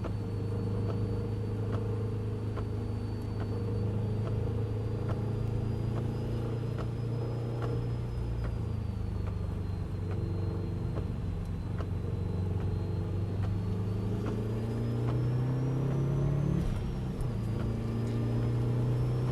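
Car engine heard from inside the cabin, running under load at fairly steady revs. The pitch sags slowly, climbs toward about sixteen seconds in, then drops abruptly, as at a gear change, and rises again. A thin high whine runs above it.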